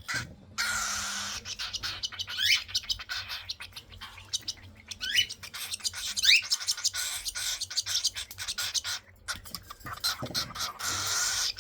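Baby cockatiels begging for food during hand-feeding: long hissy calls, a few short rising squeaks and many small clicks.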